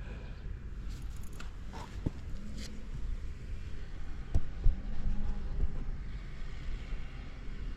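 Buell XB12Ss Lightning's air-cooled V-twin engine idling with a steady low rumble, and a few sharp clicks about two and four and a half seconds in.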